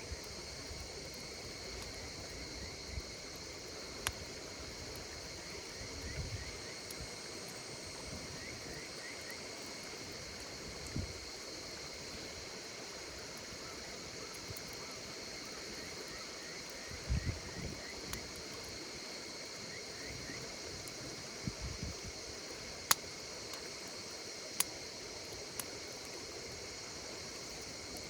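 Campfire burning with a few sharp crackling pops, the loudest about two-thirds of the way in, over a steady high-pitched chorus of calling insects with short repeated chirps among them.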